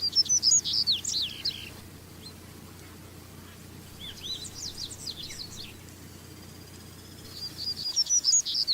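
Double-collared seedeater (coleiro) singing: three phrases, each a quick run of high whistled notes lasting about a second and a half, at the start, about four seconds in, and near the end.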